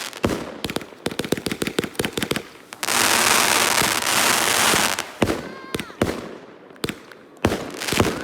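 Fireworks going off: a string of sharp bangs, then a fast run of cracks, then about two seconds of loud, dense crackling hiss, followed by more single bangs near the end.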